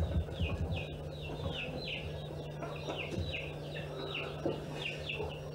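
Birds chirping over and over, two or three short calls a second, each a quick falling note, over a steady low hum. A few soft knocks near the start as teacups are handled on the table.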